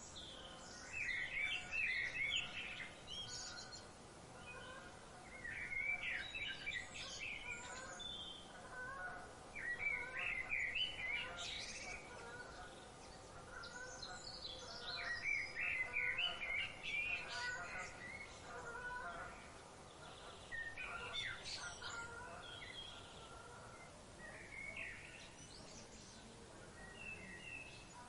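Birds of paradise calling in bouts of rapid chirping notes that come every few seconds, over fainter background bird calls.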